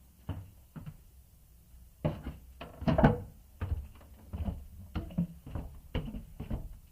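Irregular knocks and thuds in a small, echoing room, a few at first, then several a second from about two seconds in, the loudest about three seconds in.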